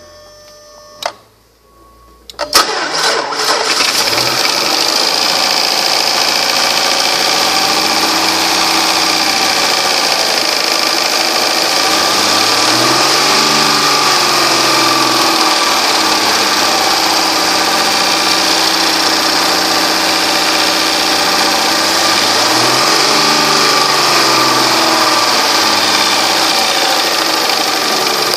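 2007 Dodge Charger engine cranking and starting about two and a half seconds in, then idling steadily. It is revved up and back down twice, about halfway through and again near three-quarters of the way.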